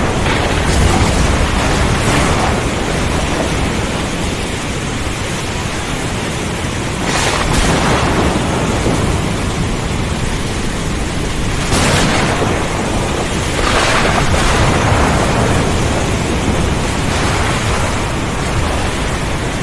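Thunderstorm: heavy rain and wind hiss over a continuous low thunder rumble, with several brief louder surges.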